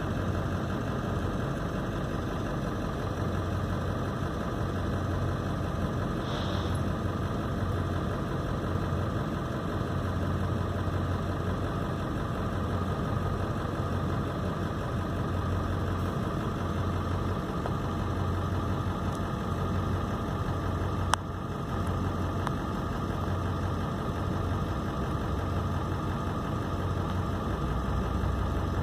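Vehicle engine idling steadily with a low pulsing hum, heard from inside a car's cabin, with a single sharp click about two-thirds of the way through.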